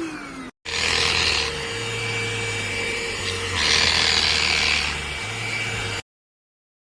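Enolux LPMY-017 handheld dust mite vacuum cleaner running with a steady motor hum, its head rubbing over a surface with two stretches of louder scraping hiss; it cuts off suddenly about six seconds in.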